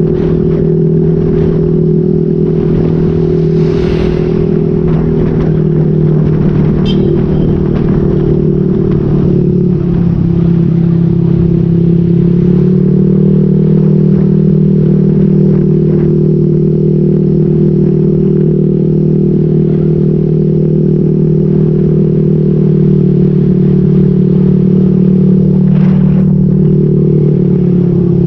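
Motorcycle fitted with an SC Project exhaust with a modified elbow, running at a steady cruise, its note stepping up slightly about ten seconds in and dipping briefly near the end.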